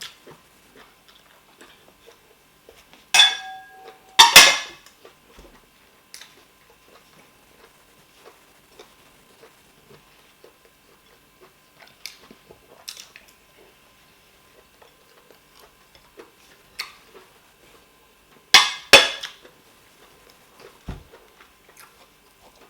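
Dishes clinking: two pairs of sharp knocks, one pair about three seconds in and another near the end, the first knock ringing briefly. Faint small clicks fall in between.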